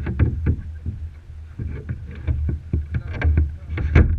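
Kayak paddling on water: a dense run of short sharp knocks and splashes over a steady low rumble of wind on the microphone.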